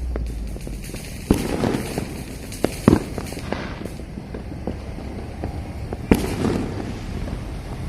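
Many fireworks going off at once across the city: a continuous crackle with sharp bangs a few seconds apart, the loudest about three seconds in.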